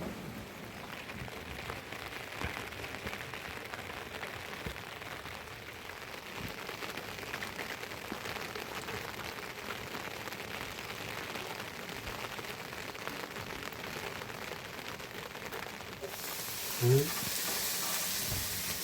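Rain pattering steadily on surfaces, a dense hiss of many small drop ticks, growing heavier and brighter about three seconds before the end.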